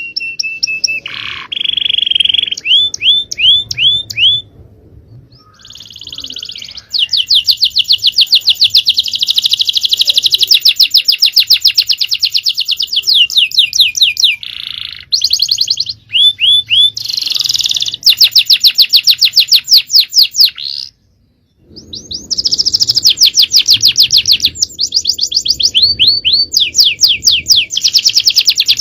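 Male canary singing long, rapid trills of quickly repeated high notes, one roll running straight into the next. The song breaks off briefly about four seconds in and again about 21 seconds in.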